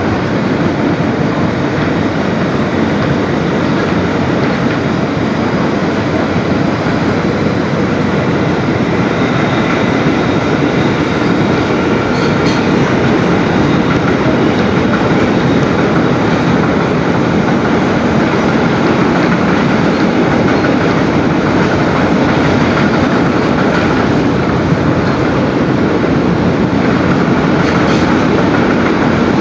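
Inside an R160B subway car running at speed between stations: the steady rumble of wheels on rail, with a faint whine from the propulsion system and a couple of faint clicks.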